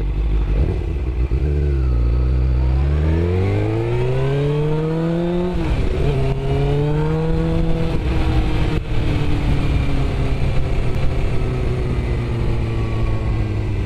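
Suzuki GSX-R sport bike's inline-four engine pulling away from a stop: low and steady for a couple of seconds, then revving up through first gear, shifting up about five and a half seconds in and again around eight seconds, then running steadily at cruising speed.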